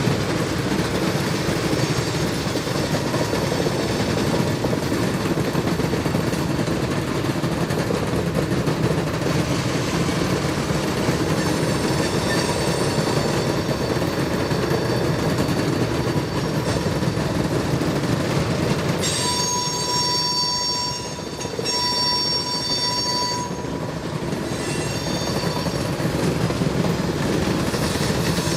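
Railcars rolling on the track behind a switcher, a steady rumble of wheels on rail. About two-thirds of the way in, a high wheel squeal comes and goes several times.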